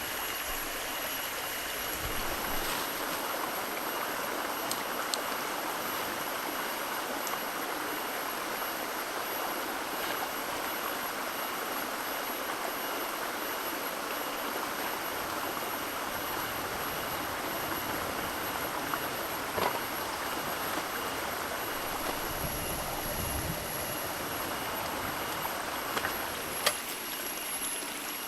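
Steady rush of running water, like a forest stream, over a thin, steady high-pitched whine. A few faint clicks.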